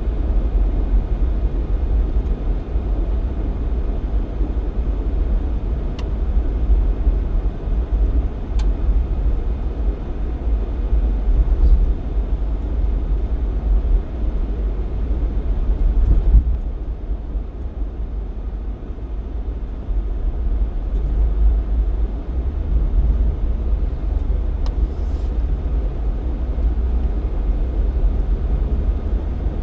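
Jeep Cherokee XJ driving, a steady low rumble of engine and road noise that eases for a few seconds a little past the middle, with a couple of faint ticks.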